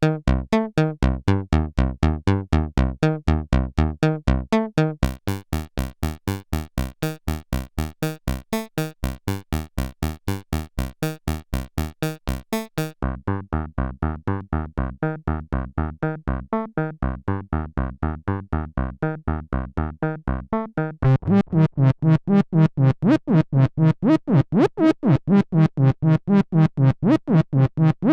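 Roland SE-02 analog monophonic synthesizer playing a fast sequenced pattern of short notes, about four a second, stepping through factory preset patches. The tone changes three times: much brighter and buzzier about five seconds in, duller near the middle, and louder with sweeping filter glides about three-quarters through.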